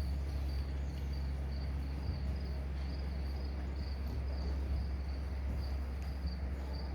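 Crickets chirping in a steady, even pulse of high-pitched chirps, about two or three a second, over a constant low hum.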